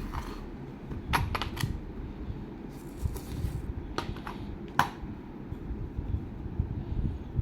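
Packaging of a small diecast model car being handled and opened: a few sharp clicks and crackles, a quick cluster about a second in and two more around the middle, over a steady low rumble.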